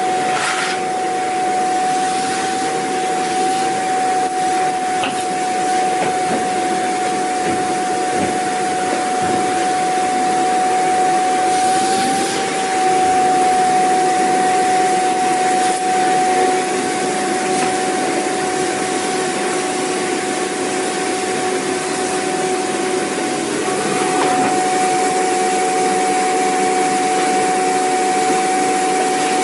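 Vacuum cleaner motor running continuously: a steady whine over a rushing hiss of air, with small shifts in tone now and then.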